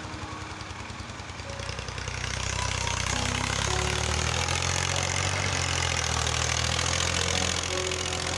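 Massey Ferguson 240 tractor's three-cylinder diesel engine running steadily, getting louder about two seconds in.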